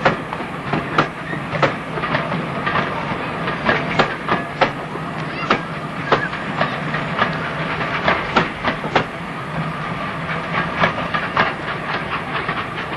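Train running on track, its wheels clicking and knocking irregularly over rail joints, with a steady low hum beneath.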